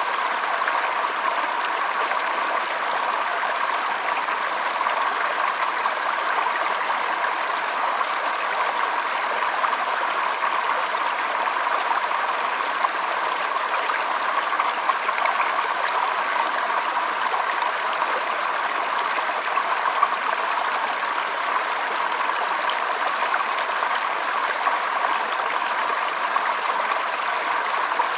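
Shallow stream trickling and flowing over stones, a steady even rush of water without pause.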